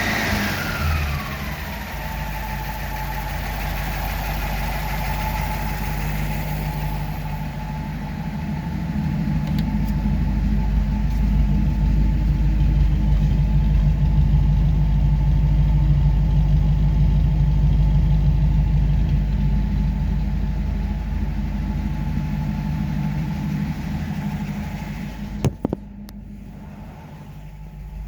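1941 Buick Limited's straight-eight engine running, settling down from a rev at the start with a whine that falls in pitch and then holds steady. It runs on evenly, a little louder through the middle. A sharp click near the end is followed by a quieter stretch.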